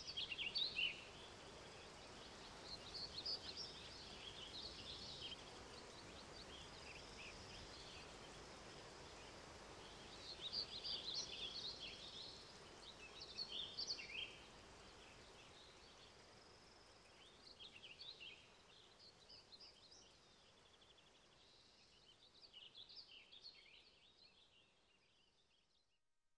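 Small birds singing faintly in scattered chirping phrases over a quiet forest background, the sound fading out near the end.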